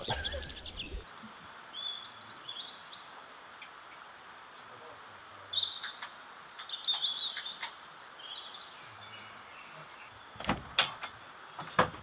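Small birds chirping in short, scattered calls over a quiet background, with a few sharp knocks or clicks near the end.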